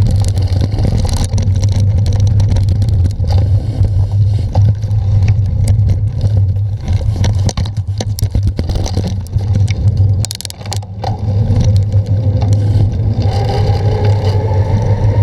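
Wind rumble on a bike-mounted camera's microphone with constant rattling and clatter from a bicycle riding over rough ground. It dips briefly about two-thirds of the way through, and two faint rising tones come in near the end.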